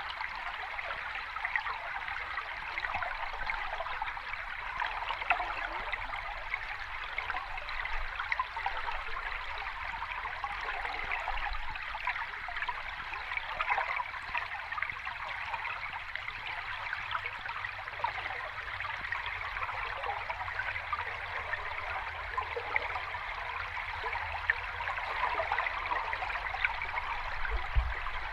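Sea water washing and fizzing steadily, with many small bubbling crackles and no distinct wave breaks.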